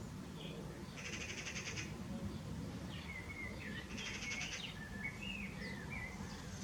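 Small birds calling: a harsh buzzy rattle about a second in and another around four seconds, with short chirps and whistled notes between them, over a steady low hum.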